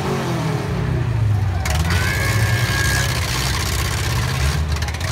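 Four-cylinder demolition derby car engines running and revving, their pitch rising and falling, with a thin high tone for about a second near the middle.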